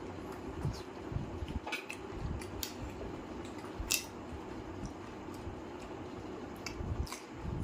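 A person chewing a mouthful of chicken curry and roti, with wet mouth-smacking and scattered sharp clicks. The loudest click comes about four seconds in, as food is picked off a steel plate. A steady low hum runs underneath.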